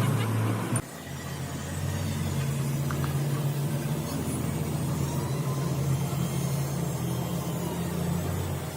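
An engine running steadily at idle, a low even hum; the sound changes abruptly just under a second in, then goes on as a steady engine hum.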